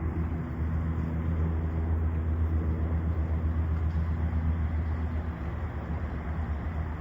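A motor vehicle's engine running steadily: a low droning hum with a quick flutter in it.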